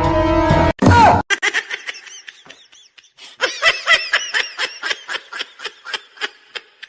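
High-pitched laughter in a rapid run of short bursts, about three a second, growing stronger about halfway through. Music plays at the very start, then stops.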